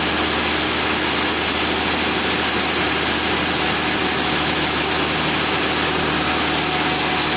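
Sawmill machinery running steadily: a constant engine-like drone with a steady hum and no change in load.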